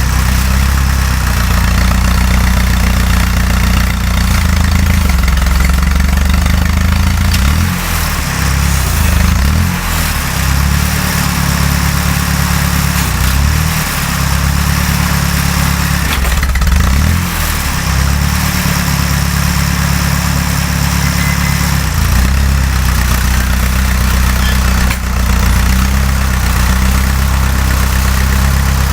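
Fiat 352c tractor engine running steadily under load while ploughing. Its note dips and picks back up twice along the way.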